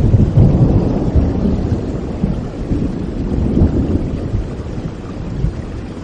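Rolling thunder rumbling over steady rain, loudest at the start and slowly dying away.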